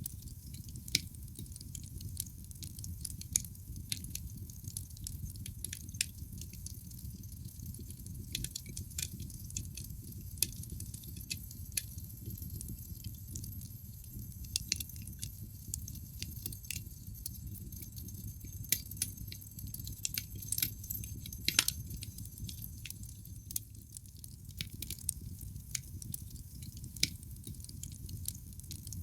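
Wood logs burning in a fireplace: a steady low rumble of flames under irregular sharp crackles and pops, with one louder pop about three-quarters of the way through.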